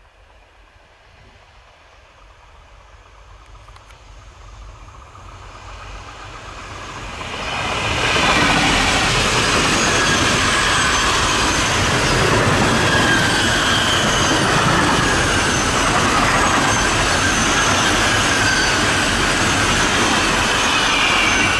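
Diesel-hauled freight train of covered grain hopper wagons approaching and passing close by at speed. The rumble grows over the first eight seconds or so, then stays as a loud, steady roll of wagon wheels on the rails, with a wavering high-pitched wheel squeal over it.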